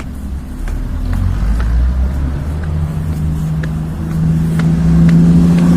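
A car engine running close by, a low steady hum that grows louder toward the end. Light footsteps tick along under it.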